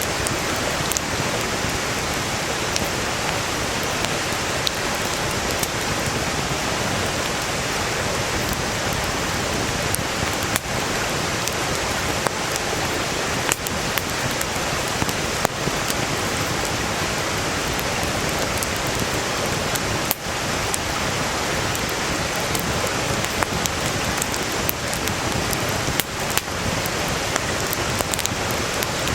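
A mountain stream rushing steadily, with the scattered crackles and sharp pops of firewood burning in a campfire.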